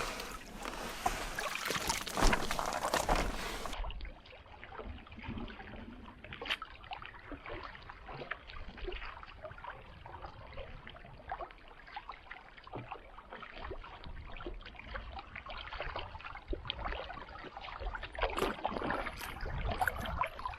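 Canoe being paddled: irregular small splashes and drips of water from the paddle strokes against the hull and lake surface. The first few seconds are louder and fuller, then the sound changes abruptly to quieter, finer splashing.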